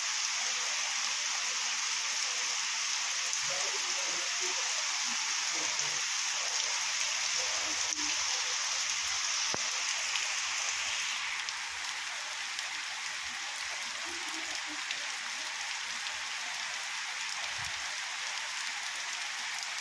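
Heavy rain falling steadily, an even hiss of drops on surfaces that drops slightly a little past halfway.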